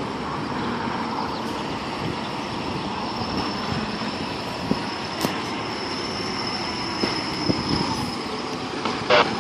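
Street traffic around fire apparatus: a steady rumble of heavy vehicles with a thin high whine running through it, and a couple of short, loud blasts near the end.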